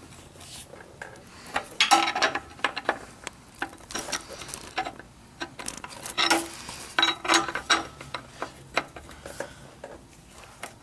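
Metal hand tools clinking and clanking in irregular knocks as a wrench is being fitted to the drain plug of a car's oil pan.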